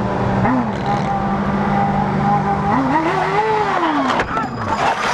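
A vehicle engine running steadily, briefly blipped, then revved up and falling away again over a second or so, with a few sharp knocks near the end.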